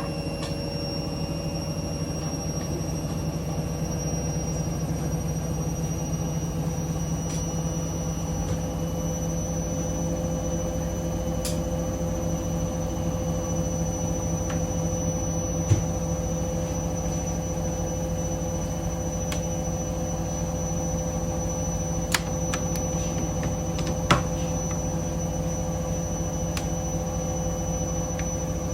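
Hoover Link washing machine spinning at full speed of 1400 rpm: a steady drum and motor hum with a high, even whine. A few sharp clicks come through near the middle and later on.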